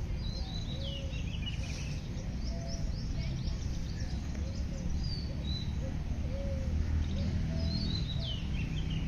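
Several birds chirping and singing, with many quick high calls that fall in pitch, and softer, lower short calls between them. A steady low rumble runs underneath.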